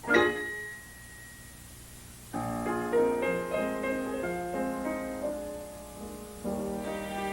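Piano music from the film's score: a struck chord at the start that rings away, a short pause, then sustained chords from a little over two seconds in.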